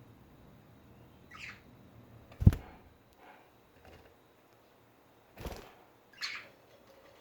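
Pet budgerigars giving short, high chirps, a couple of them clearer than the rest, with two sharp knocks about two and a half and five and a half seconds in; the first knock is the loudest sound.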